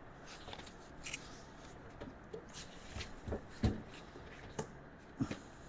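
Light handling noise: a few scattered soft taps and rustles of parts and packaging being moved about during unboxing.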